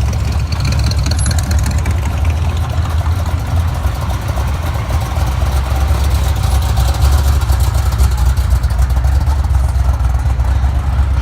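Car engine idling with a steady, deep low rumble.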